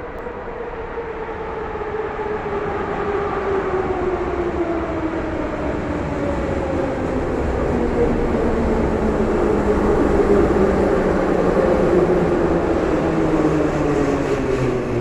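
Moscow metro 81-717/714 ('Nomernoy') train pulling into the station, its motor whine falling steadily in pitch as it slows and growing louder over rumbling wheels.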